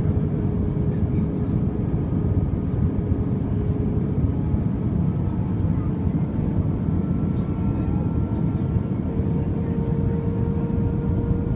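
Airbus A320 cabin noise during descent: a steady rush of airflow and engine drone, with a faint engine tone that steps up slightly in pitch about nine seconds in.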